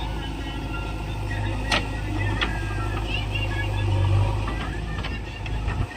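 JCB backhoe loader's diesel engine running, swelling and easing several times as it works under load, with a few sharp metallic clanks.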